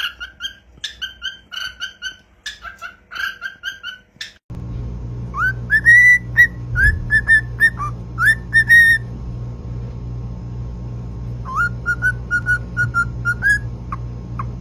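A bird chirping in quick repeated calls. After about four and a half seconds it cuts to a steady hum with a parrot whistling a tune in short notes that scoop up in pitch, in two phrases with a pause between.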